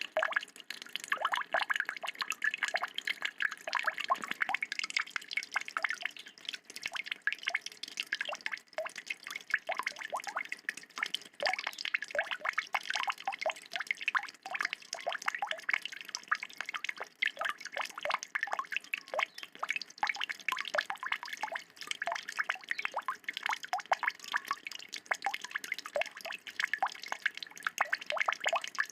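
A kecial, a small white-eye songbird, singing a long, fast, unbroken chatter of short chirping notes.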